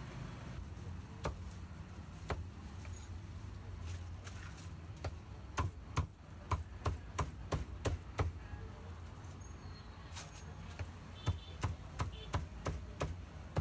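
Chopping on a cutting board: a few single strokes, then a run of about eight quick strokes at roughly three a second in the middle, and another run of about six near the end, over a low steady hum.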